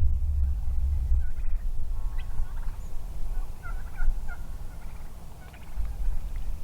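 Merriam's wild turkeys calling in the distance, a few short faint calls in the middle stretch, over a steady low rumble.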